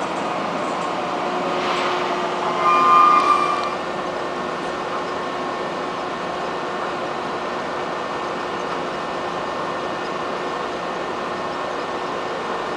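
Steady rumble and hum of trains at a railway station platform, with a brief, louder two-pitched tone about three seconds in, then an even, steady rumble.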